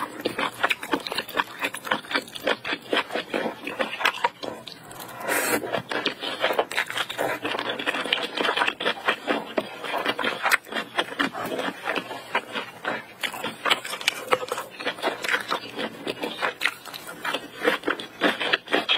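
Close-miked eating sounds of someone chewing spicy noodles and seafood: a dense, irregular run of wet smacking clicks, several a second, throughout.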